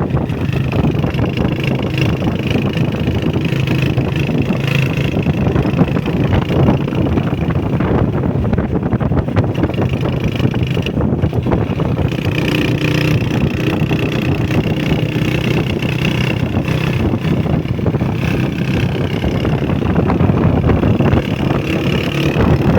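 Honda CG125's single-cylinder four-stroke engine running steadily under way, with wind buffeting the microphone.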